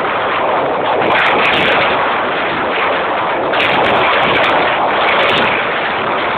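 Rapid, continuous barrage of firework explosions, the bangs so close together that they run into one dense, unbroken rattle at a steady high loudness.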